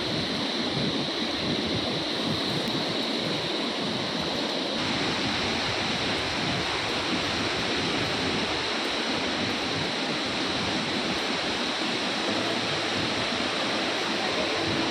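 Steady, dense rush of a large waterfall, water plunging and churning without a break.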